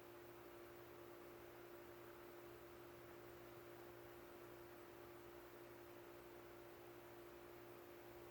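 Near silence: room tone with a faint steady hum at one constant pitch.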